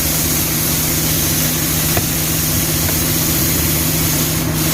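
Engine idling steadily with a loud, continuous hiss of air over it.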